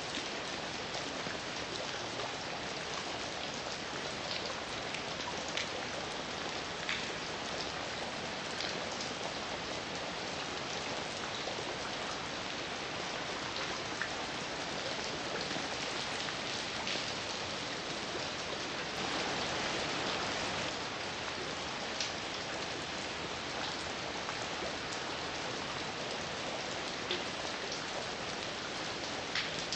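Steady heavy rain falling, an even hiss with scattered individual drops striking close by as sharp ticks. The rain swells a little about two-thirds of the way through.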